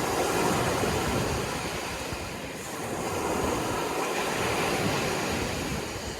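Sea waves washing onto the shore, a steady rush of surf that swells loudest near the start and again a few seconds in.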